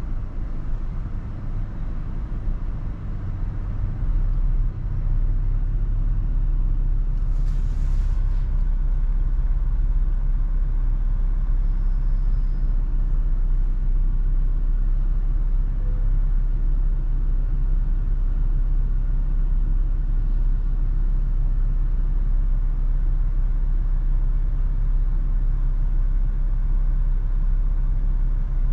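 Toyota FJ Cruiser driving in heavy wind: a steady low rumble of road and wind noise. A brief hiss comes about eight seconds in.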